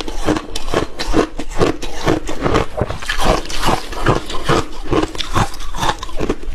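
Close-up chewing and crunching of frozen milky ice in the mouth, a rapid run of crunches about two to three a second.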